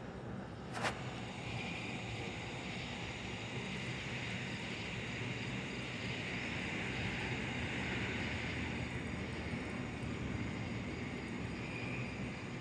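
Distant thunder rumbling steadily under a high, even hiss that swells through the middle, with one sharp click about a second in.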